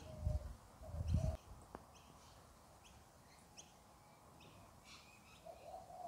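Faint, short high bird chirps scattered through, every half second or so, with a low rumble in the first second or so.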